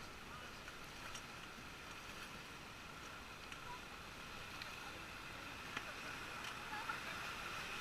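Faint, steady rush of river water around a paddled raft, with a few soft ticks.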